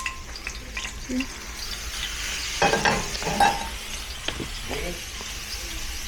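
Stir-fry sizzling in a hot pan while it is stirred, with a few utensil clacks and scrapes against the pan around the middle.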